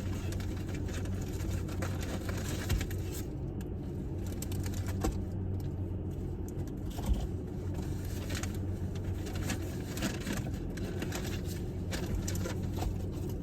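Steady low hum, like a vehicle cabin with the engine running, with a few small clicks and rustles as a fast-food sandwich and its wrapper are handled.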